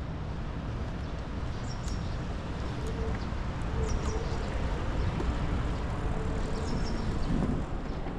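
Steady rushing wind and rolling noise from a moving bicycle, with short bird chirps here and there.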